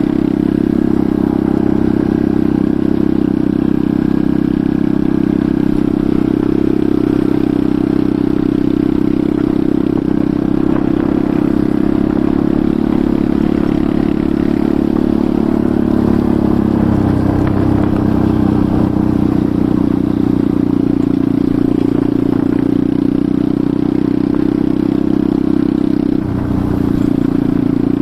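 Enduro motorcycle engine running steadily under way, its pitch shifting about two-thirds of the way through and dipping briefly near the end.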